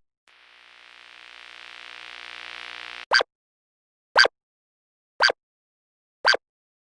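Editing sound effects: a rising synthetic swell for about three seconds, cut off suddenly, then four short sharp ticks about a second apart with dead silence between them.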